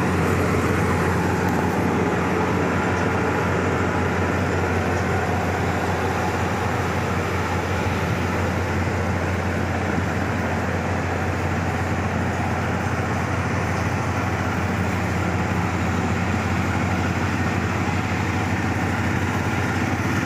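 Steady drone inside a moving vehicle: a constant low engine hum under an even rush of noise, unchanging throughout.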